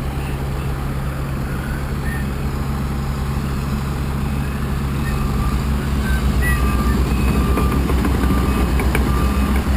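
Diesel engine of heavy equipment running steadily, getting louder about halfway through. A reversing alarm beeps repeatedly in the second half.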